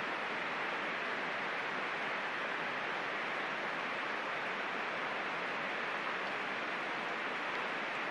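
Heavy downpour of rain falling steadily on a paved yard and trees, an even hiss with no breaks.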